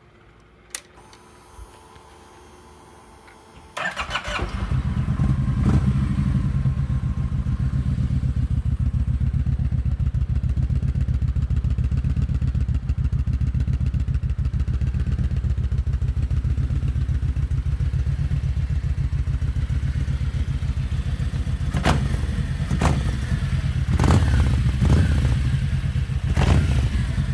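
Kawasaki VN 1700 Classic Tourer's V-twin fitted with an aftermarket Miller exhaust: a click, then the engine is started about four seconds in and settles into a loud, steady idle. Several short throttle blips come near the end.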